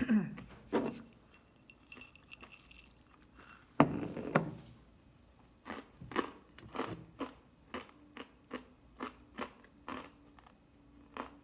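A person chewing crunchy roasted soy nuts close to the microphone: a run of sharp, short crunches about two a second in the second half, with louder bumps near the start and about four seconds in.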